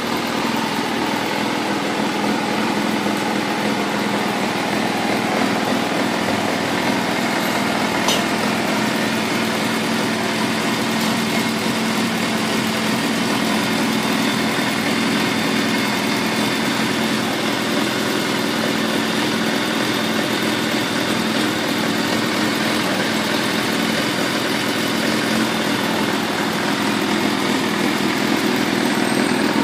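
Kawasaki ZRX400-II's four-cylinder engine idling steadily through an aftermarket carbon muffler. There is a single light click about eight seconds in, and it gets slightly louder near the end.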